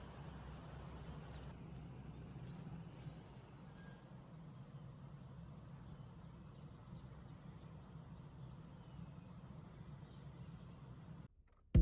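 Faint outdoor ambience: a steady low hum and hiss with a run of small high chirps, about two a second, through the middle; it cuts off abruptly near the end.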